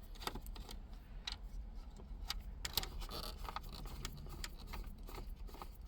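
T15 Torx screwdriver backing screws out of a plastic dash panel: irregular light clicks and ticks of the tool and screws.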